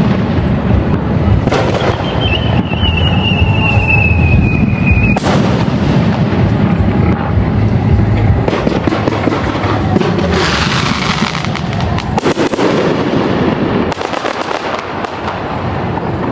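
Fireworks bursting overhead: booming shells, a high whistle that falls slightly in pitch over about three seconds, then fizzing crackle and a quick run of small cracks near the end.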